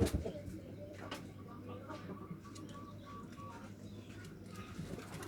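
Local zebra dove (perkutut) cooing in a quick run of short, evenly spaced notes, over a steady low hum.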